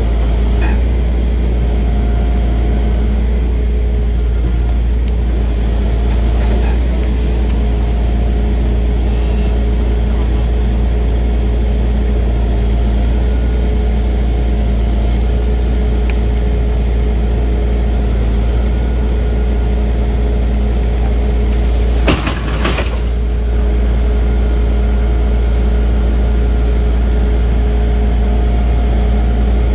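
Heavy truck engine idling steadily, a constant deep hum, with a brief clatter about 22 seconds in.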